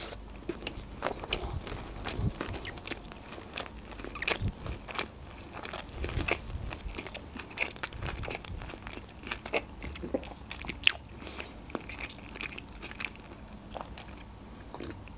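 A person chewing a mouthful of fried sushi roll with shrimp: a stream of small crunches and wet mouth clicks.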